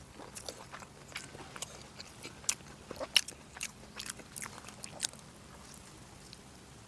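Close-miked chewing and biting of braised pork: a run of irregular wet clicks and smacks, which stops about five seconds in.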